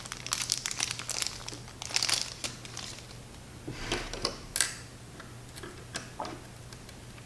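Crinkling rustle of small parts being handled in a plastic bag, then a few light, separate clicks of small metal hardware, washers and screws, being picked up and set against the frame.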